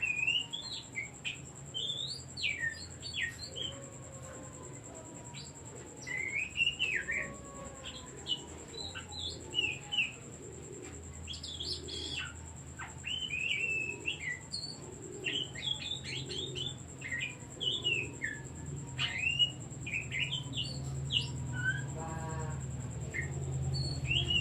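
Oriental magpie-robin (kacer) singing: a long run of short, quick whistled and chirping notes in varied phrases with brief pauses, with a short buzzy rattle near the end.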